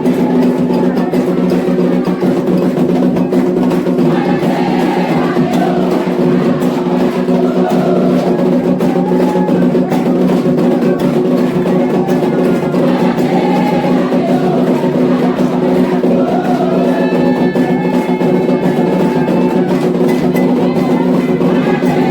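Candomblé ritual music: atabaque hand drums and percussion playing a dense steady rhythm under group singing of a chant to the orixás.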